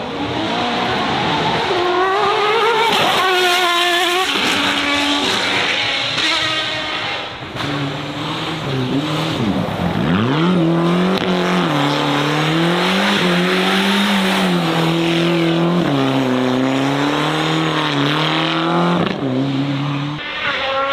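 A performance car's engine revving hard, its pitch wavering up and down, with a sharp drop and climb back about halfway through, and tyres squealing over it.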